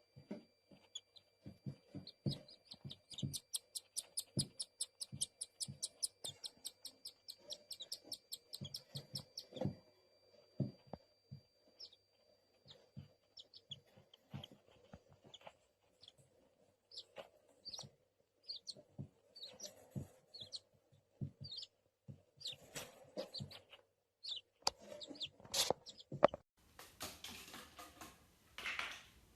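Pet parrot chirping: a fast, even run of short high chirps a few seconds in, then scattered single chirps, among soft taps and knocks. A rushing noise comes in near the end.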